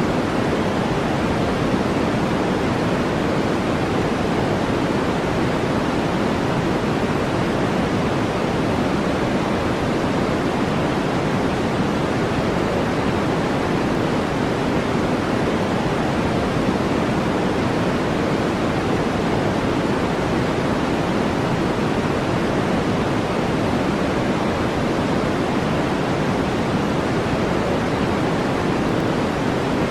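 Steady, unbroken brown noise, deep and rushing, with most of its weight in the low-middle range and no changes or events.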